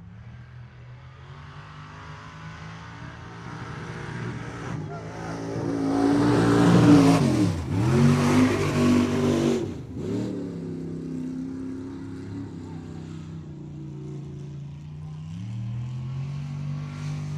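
Mud-bog super truck's engine revving hard as it runs the pit. The note climbs to its loudest about six to ten seconds in, with a rush of noise over it, and the revs drop sharply twice. It then runs steadier and climbs again near the end.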